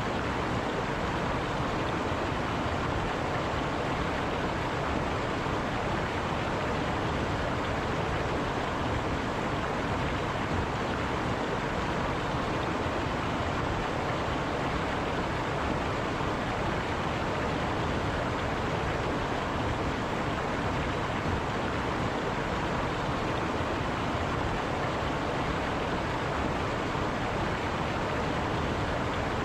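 River water rushing steadily over rocks, a continuous even rush with no breaks.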